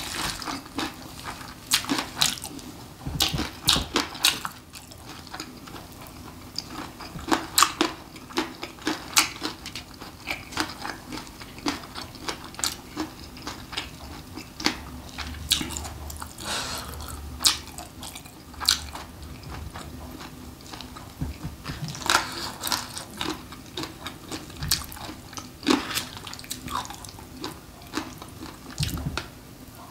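Close-miked eating sounds: a person chewing spicy mixed noodles and sliced pig's trotters, with scattered sharp clicks of metal chopsticks against the bowl as the noodles are stirred.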